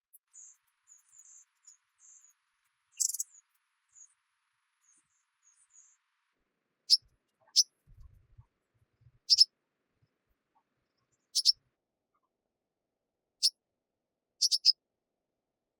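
A bird calling in short, sharp, high chirps, one every second or two, some in quick pairs. Faint high twitters come early, and a brief rustle about three seconds in.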